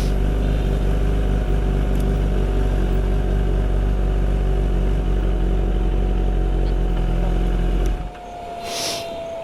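Motorcycle engine running at a steady, even pitch, cutting off sharply about eight seconds in. A thinner whine carries on and sinks slowly in pitch, and there is a short hiss near the end.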